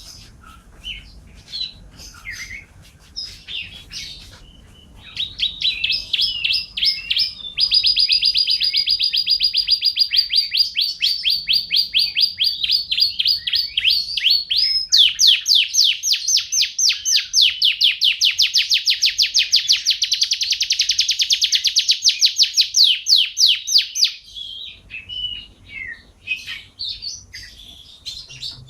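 Canary singing: scattered chirps, then a long run of loud, rapid trills lasting nearly twenty seconds, changing to a new trill partway through, before breaking back into scattered chirps near the end.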